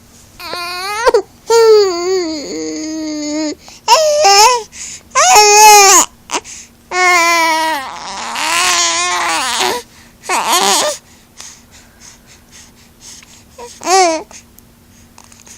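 A baby crying and fussing in a string of high, wavering wails with short pauses between them, dying down after about eleven seconds except for one short cry near the end.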